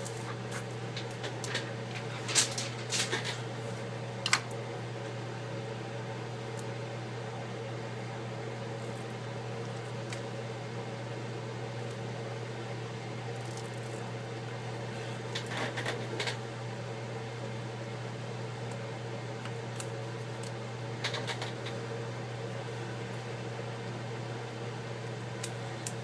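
Steady low machine hum, with short crackling rustles of protective plastic film being peeled off the new iPad digitizer glass: a cluster about two to four seconds in, another around sixteen seconds and one around twenty-one seconds.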